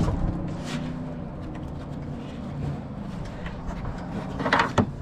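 Hands handling car parts and wiring during assembly, with a short rattle ending in a sharp click near the end.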